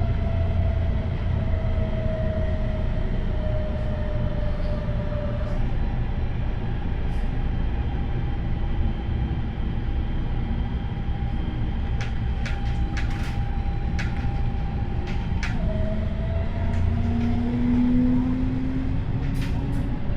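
MTR Tung Chung line CAF electric train running on rails, its motor whine shifting in pitch and rising again near the end. A quick series of sharp clicks comes about two-thirds of the way through.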